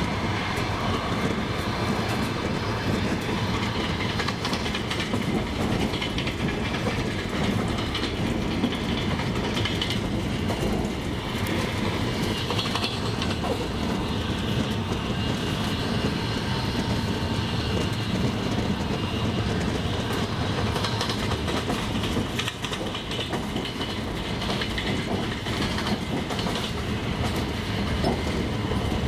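Wheels of a moving double-decker passenger train clattering over the rail joints, over the steady rumble of the running train.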